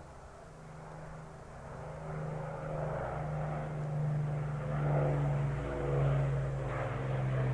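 Avro Lancaster's four Rolls-Royce Merlin piston engines droning steadily, growing louder as the bomber approaches.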